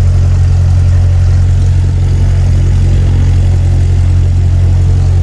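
Small airplane's engine and propeller droning steadily, heard from inside the cockpit.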